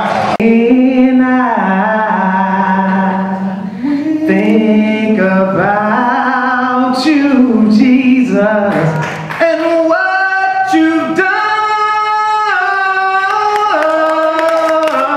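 Live gospel singing: a voice holding long notes that slide from pitch to pitch, with musical backing.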